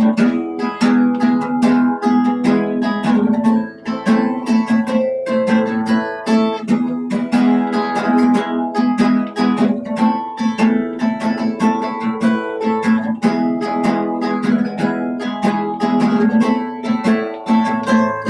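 Acoustic guitar music: a busy run of picked and strummed chords, with new notes struck several times a second.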